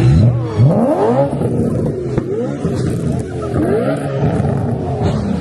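Car engine revved several times, its pitch climbing and falling back with each blip of the throttle, over a steady idle.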